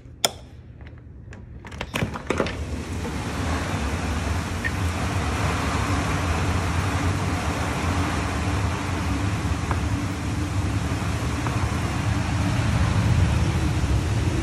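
A door latch clicks and the door is opened, and from about two seconds in the steady hiss of a heavy thunderstorm downpour fills in, growing slightly louder toward the end.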